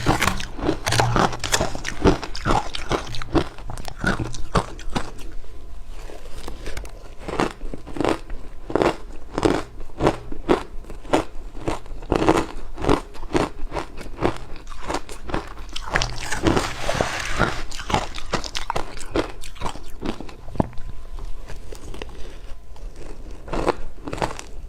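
A person biting and chewing butterfly-shaped ice, a long run of sharp crunches one after another with a denser stretch of grinding crunches in the middle.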